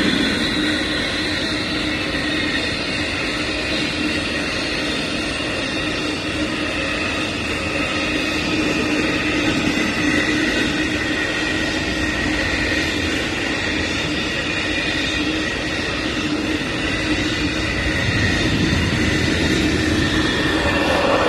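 Amtrak Auto Train's enclosed auto-carrier cars rolling past on the rails: a steady rolling rumble with a steady whine over it.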